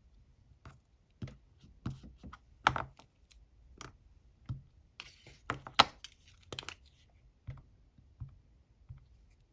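Scattered clicks and taps of rubber stamps and an ink pad being handled on a craft desk, with a brief rustle about five seconds in.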